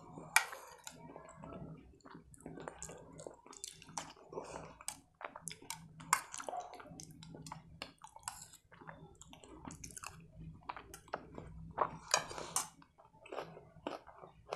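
Close-miked chewing and eating of soft, saucy food with a spoon, with irregular wet mouth clicks and smacks. There is a sharp click about half a second in, and a spoon taps a steel bowl now and then.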